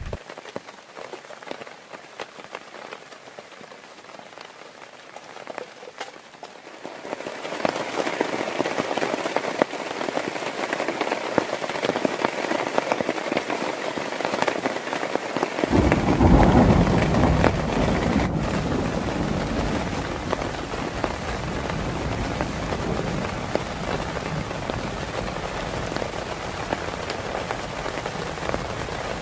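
Heavy rain falling, growing louder about a quarter of the way in. About halfway through a deep rumble swells up and fades away over several seconds.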